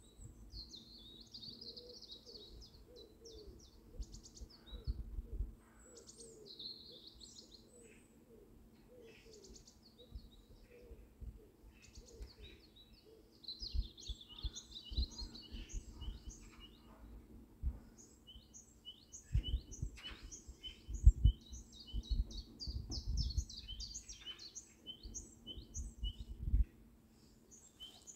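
Birds chirping and calling, many short high chirps in quick runs, over a faint low steady hum. Low thuds come in the second half.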